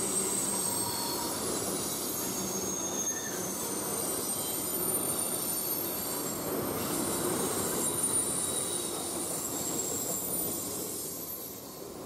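Freight train cars rolling past, with a steady rumble and thin, high wheel squeal that comes and goes. The sound fades out near the end.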